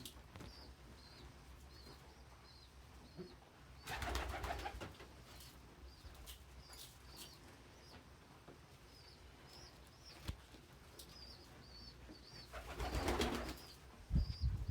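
Pigeons in a loft: faint high chirps repeat throughout. A burst of wing flapping comes about four seconds in and another near the end, followed by a short low knock.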